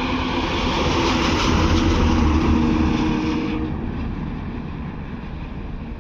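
A heavy truck passing by, its engine and tyre noise swelling to a peak about two seconds in and then fading away.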